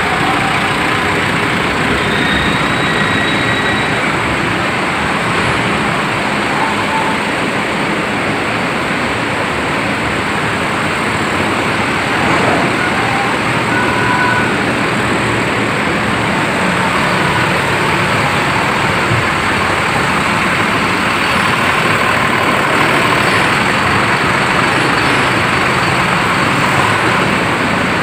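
Steady, loud mechanical noise with an even rush, like engines and traffic, holding constant throughout.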